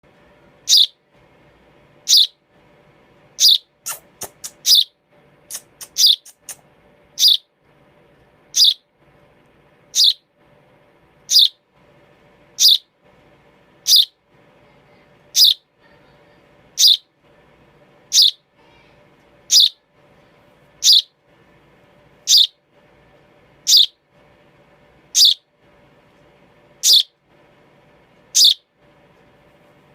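Baby sparrow chirping, a single short, sharp, high-pitched chirp repeated at an even pace of about one every second and a half. A few fainter clicks come between the chirps around four to six seconds in, over a faint steady background hum.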